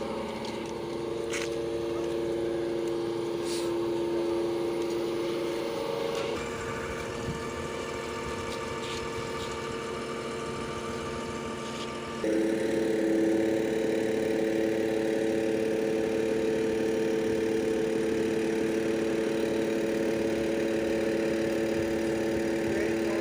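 Putzmeister concrete pump's engine running steadily. Its pitch shifts about six seconds in, and about twelve seconds in it changes pitch again and gets louder.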